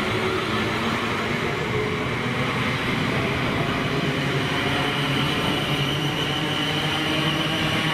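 A train running through the station: steady running noise with a low hum and a high whine that grows a little stronger toward the end.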